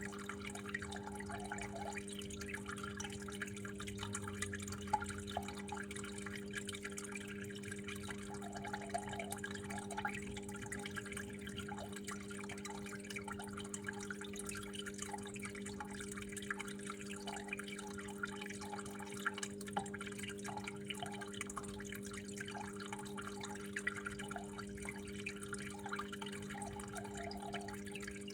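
Water flowing and dripping steadily, with many small irregular drips and splashes over a steady low hum.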